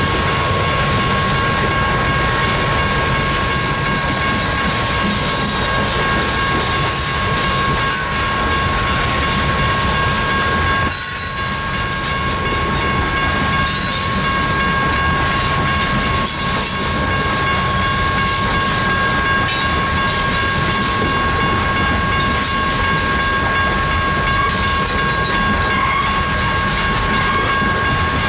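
Coal train hopper cars rolling past with a steady rumble and clickety-clack of wheels over rail joints. Two steady high-pitched tones ring through it all the way.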